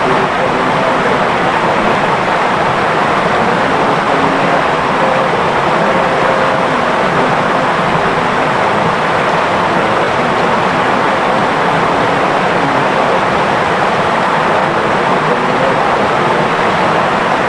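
Clear river water flowing, a steady, even rush of water.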